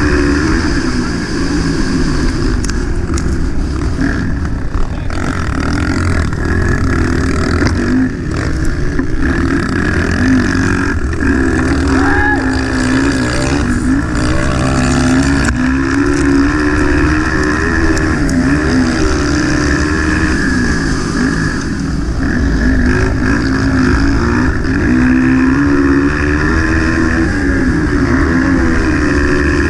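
230 cc motocross bike engine running hard, its pitch rising and falling again and again as the throttle is opened and closed, over a constant low rumble.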